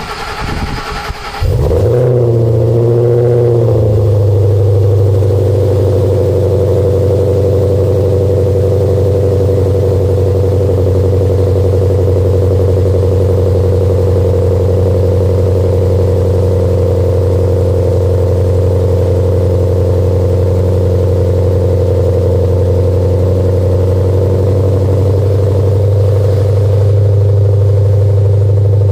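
2013 Mustang GT's 5.0 Coyote V8 breathing through Kooks 1-3/4 in long-tube headers, a catless X-pipe, Pypes M80 resonators and a Kooks custom axle-back: the starter cranks, the engine catches about a second and a half in and flares, then settles within a couple of seconds into a loud, steady idle.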